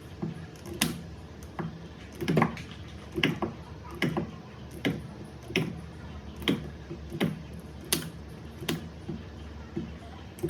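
Battery spot welder firing on nickel strip over 18650 cells: a sharp snap about every three-quarters of a second, a dozen or so in a row.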